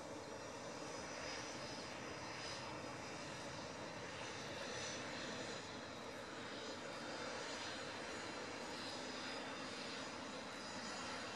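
Faint, steady jet-engine noise from an Airbus A330-200's General Electric CF6-80E1 turbofans on approach, an even rush with a faint high whine.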